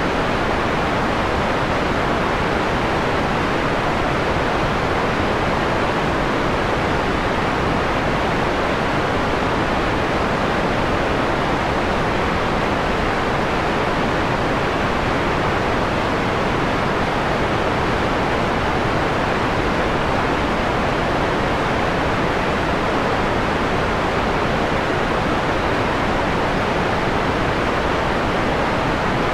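Steady electronic white noise with its highs rolled off, leaving a soft, mellow hiss.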